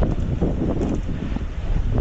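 Wind buffeting the microphone of a camera on a moving bicycle, a heavy, fluttering rumble.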